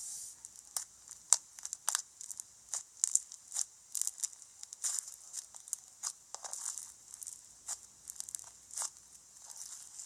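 Slime being squished and stretched by hand, giving irregular crackling pops and clicks.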